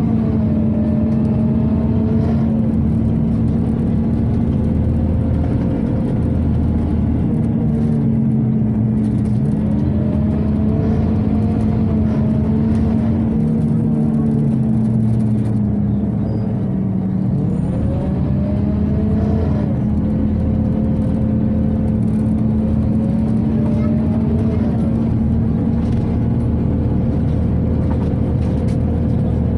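Inside a Scania OmniCity city bus: the ventilation blower hums steadily, while the engine and drivetrain whine rises and falls in pitch about four times as the bus speeds up and slows.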